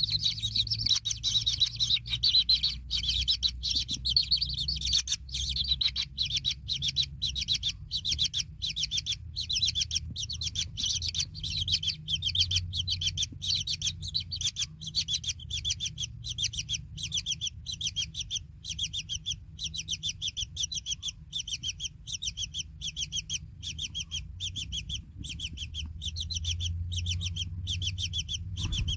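Kingfisher chicks chirping in a long, steady run of short high notes, about two a second, over a faint low hum.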